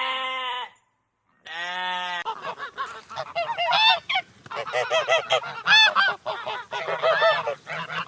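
A pitched farm animal call ends, and after a short silence another brief call of the same kind is heard. From about two seconds in, a flock of farm birds calls over one another in many short, repeated calls that rise and fall.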